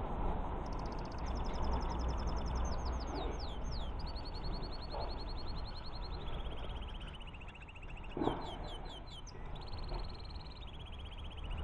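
A small songbird singing a long, varied song of rapid trills and falling, sweeping notes, with a light knock about eight seconds in.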